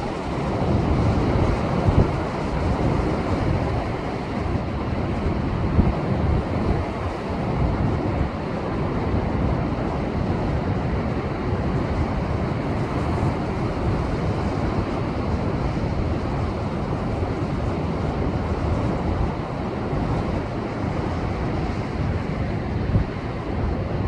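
Heavy surf breaking against shoreline rocks in a continuous wash, swelling and easing, with wind buffeting the microphone.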